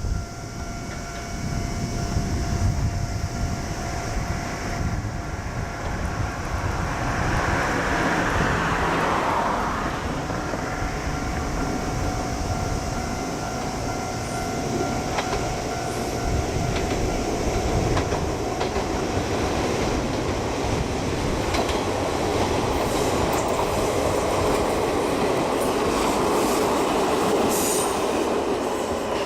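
A train running past at a railway level crossing, its wheels clicking over the rail joints. The crossing's warning bell rings steadily through the first part.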